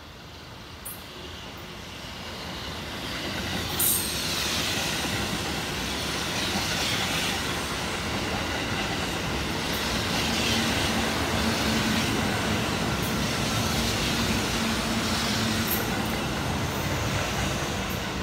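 Kintetsu train running through the station at speed. The rumble of wheels on rail builds over the first few seconds, with a sharp clack about four seconds in, stays loud for over ten seconds, then begins to fade near the end.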